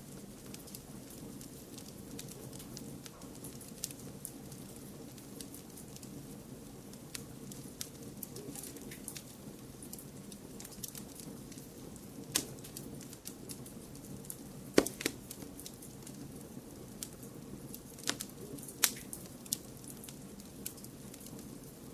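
Wood fire crackling: scattered sharp pops and snaps over a steady low rush, with a few louder pops, the loudest about 15 seconds in.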